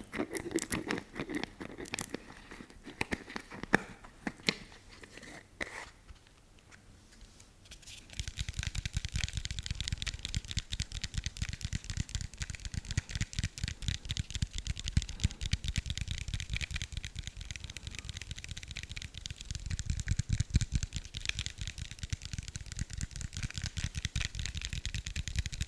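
Close-miked handling sounds from an object: scattered taps and clicks, a short lull, then about eight seconds in a dense, rapid crinkling and scratching that goes on without a break.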